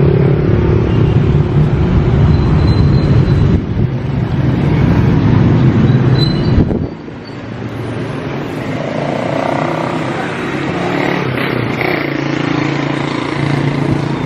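A motor vehicle's engine running steadily with a low hum, dropping suddenly to a quieter hum about seven seconds in.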